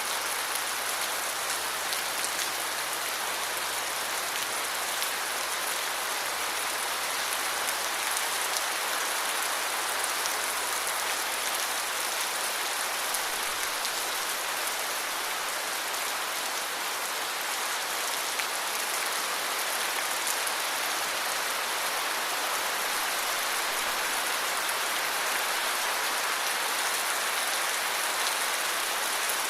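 Steady heavy rain falling, a dense even hiss of drops with scattered individual drop ticks.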